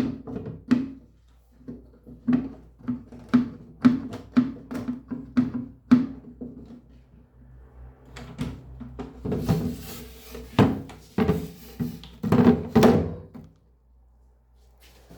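Repeated hollow plastic knocks and clunks from a toy washing machine being handled or worked, about two a second at first, then heavier clattering in the second half before it goes quiet.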